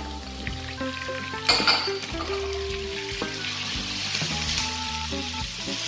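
Flaked desalted cod dropped into hot oil with chopped garlic in a frying pan, stirred with a wooden spatula. There is a sharp burst of sizzling about a second and a half in, then steady spattering frying. The oil spits because the fish still holds a little water.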